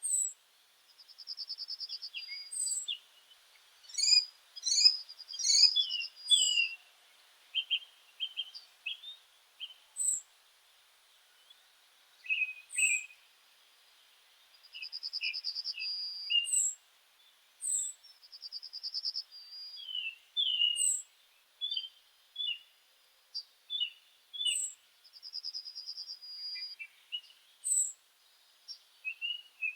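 Several meadow songbirds singing and calling. Thin, high downslurred notes recur every second or two, and a short buzzy trill comes every few seconds, with a burst of overlapping calls about four to six seconds in.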